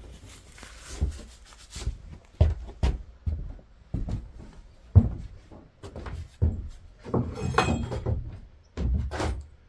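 Old wooden boards being pried loose and handled: irregular wooden knocks and scrapes, the sharpest knock about five seconds in, with a longer scraping creak around seven to eight seconds in.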